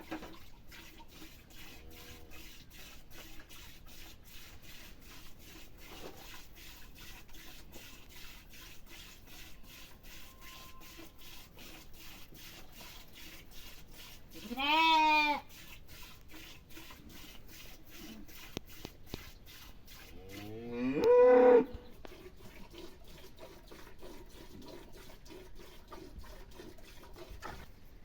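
Cattle mooing twice: a call about a second long midway through, then a longer, louder call that rises in pitch.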